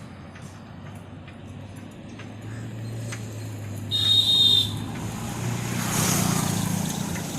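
Street traffic going by, with a steady low hum underneath. About four seconds in a short, shrill, high-pitched tone sounds once, like a horn or bell, and a second or two later a vehicle passes close by with a rush of noise.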